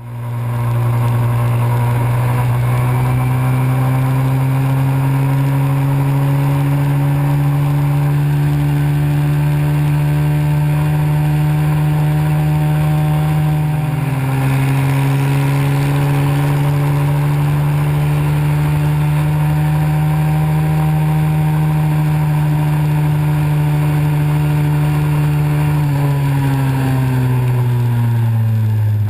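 Pit bike engine running steadily at riding speed, its note climbing slowly. The pitch dips briefly about halfway through and falls away near the end as the revs drop.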